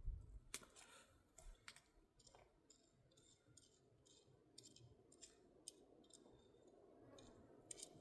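Near silence with faint, scattered clicks and ticks at irregular intervals.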